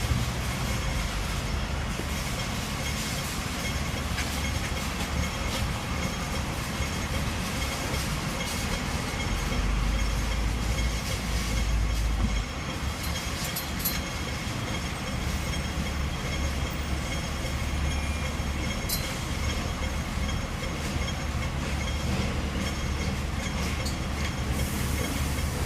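Hong Kong double-decker electric tram running along its street rails: a steady low rumble of wheels and motors, heavier for a couple of seconds near the middle, with a few sharp clicks.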